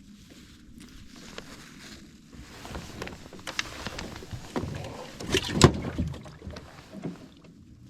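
Bumps, knocks and rattles in a small fishing boat as a freshly caught fish and gear are handled, with a cluster of sharper knocks about five and a half seconds in, the loudest.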